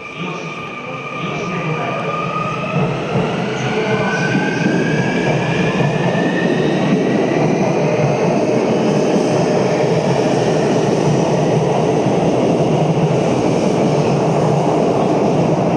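Sotetsu 21000 series electric train pulling away, its inverter and traction motors whining in rising tones as it picks up speed. The sound grows louder over the first few seconds, then settles into the steady running noise of the cars passing on the rails.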